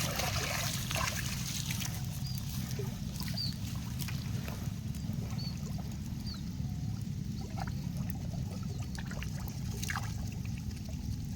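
Shallow creek water trickling and sloshing as hands grope through it, feeling for fish, with small splashes and a steady low rumble underneath.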